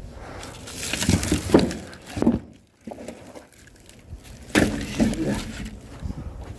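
Split oak firewood being handled: logs knocking and clattering against one another in several short bursts, with quieter gaps between them.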